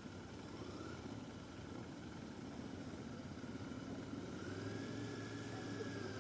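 Motorcycle engine idling faintly and steadily, its revs rising a little about four and a half seconds in.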